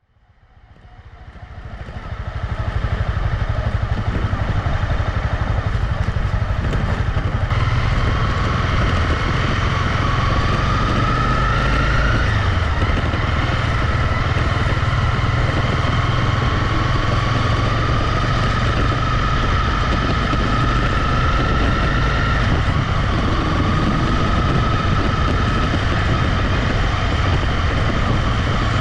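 Honda CB250R's single-cylinder engine running while riding, fading in over the first few seconds. A whine in its note rises slowly and drops back a few times as the revs change.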